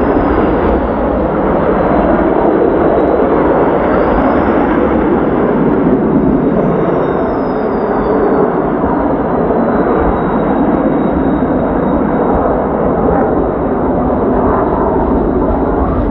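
Kawasaki T-4 jet trainers flying past with a loud, steady jet roar, a high turbine whine gliding down and up in pitch as the aircraft pass.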